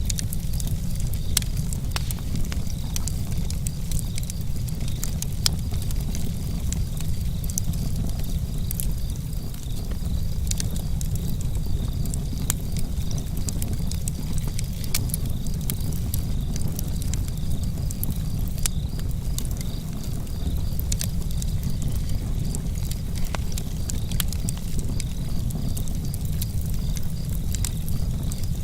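Campfire crackling: irregular sharp pops and snaps from the burning wood, some louder than others, over a steady low rumble.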